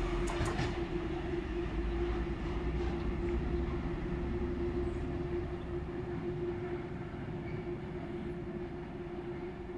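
A freight train rolling away into the distance, its low rumble fading gradually, with a steady hum through it. A few sharp clicks of wheels over the rail joints come in the first second.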